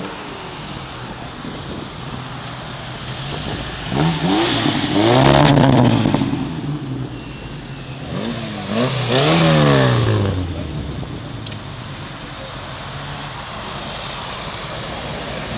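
A car engine running steadily, then revving hard and falling back twice, about four and about eight seconds in, each rise and fall lasting a couple of seconds.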